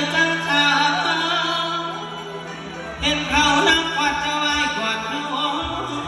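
A singer performing a Thai molam-style song, the voice bending and ornamenting its notes over band accompaniment with a steady held drone note underneath.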